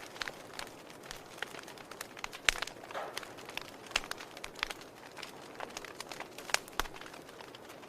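Wood fire crackling in a fireplace: irregular sharp pops and snaps over a soft hiss, the loudest pop about two and a half seconds in.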